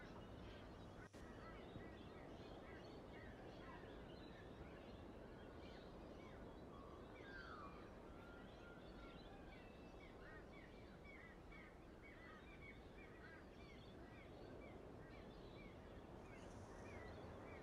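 Faint birdsong: many short, quick chirps, some falling in pitch, over a steady low background hiss, near silence overall.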